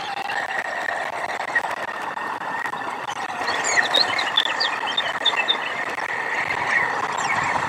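Steady outdoor background noise at a stork nest camera. From about three to six seconds in, a small bird chirps in a quick run of short, high notes.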